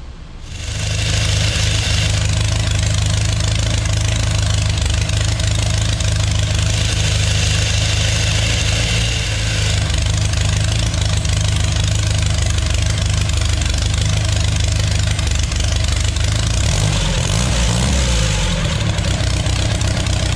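GM 3.0-liter four-cylinder engine idling loud and steady, idling a bit high. Near the end its speed shifts briefly, then settles into a steady idle again.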